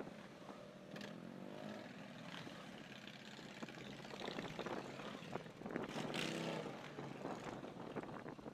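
Motorcycles riding past with their engines running, their pitch shifting as they go by; one passes loudest about six seconds in.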